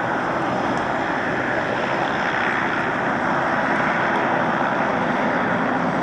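Aircraft engine running steadily, a loud, even noise without breaks.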